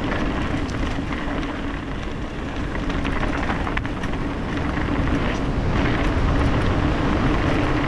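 Steady rushing rumble of wind on a helmet-mounted camera and mountain bike tyres rolling over rough dirt and rock trail, with scattered small clicks and rattles from the bike and the shaking camera.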